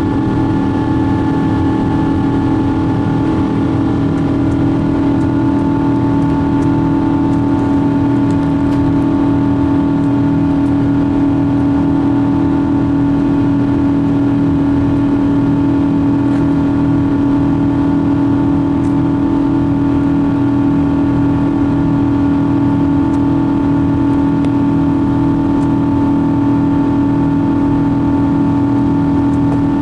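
Inside the cabin of a Boeing 777-200, the jet engines and airflow make a loud, steady drone with a strong low hum and several held tones, unchanging throughout.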